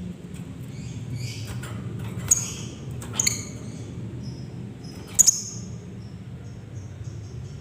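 Lovebirds giving high, sharp chirps and squeaks, the three loudest coming about two, three and five seconds in, over a low steady background hum.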